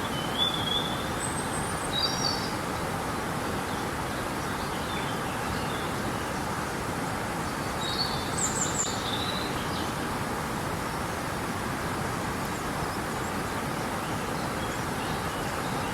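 River water rushing steadily, with birds chirping in short high calls about half a second in, around two seconds in, and again around eight to nine seconds in.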